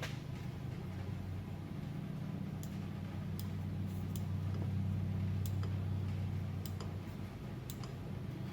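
Scattered light clicks, roughly one a second, as the castle nut is worked off a 1964 Dodge D100's front wheel hub, over a steady low hum that is the loudest sound throughout.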